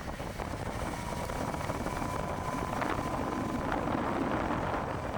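Steady rumble of vehicle engines mixed with wind buffeting the microphone. A thin, steady whine comes in about a second in and holds.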